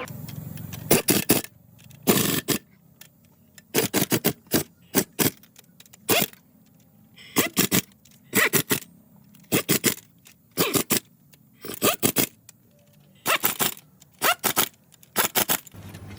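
Short scraping strokes, mostly in quick pairs or threes, repeating roughly every second with brief pauses between.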